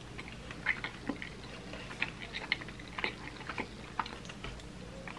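Close-up mukbang chewing of a chewy Korean rice cake (tteokbokki) in spicy sauce: scattered soft, wet mouth clicks and smacks.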